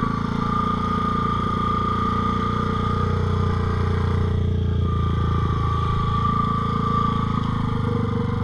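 ATV engine running steadily at low speed, with a high steady whine over it that fades briefly about halfway through.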